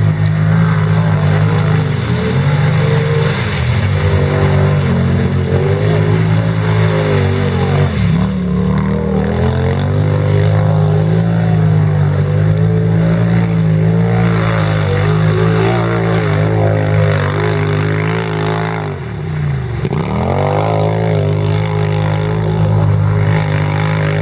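Racing quad bike engines running hard. The pitch repeatedly drops as the throttle is lifted and then climbs again, with the deepest drops about 8 seconds in and near 20 seconds.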